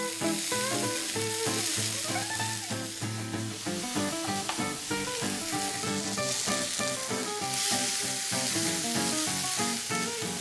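Parboiled green peas sizzling steadily in hot oil with tempered mustard seeds and curry leaves in a stainless steel frying pan, stirred with a spatula. Background music plays underneath.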